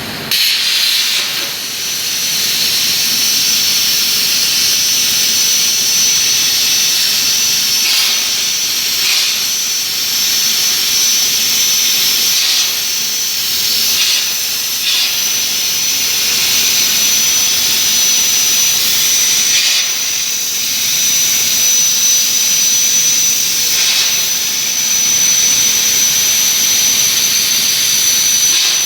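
CNC plasma cutter's arc cutting metal: a loud, steady hiss with a thin high whine, starting abruptly as the arc strikes.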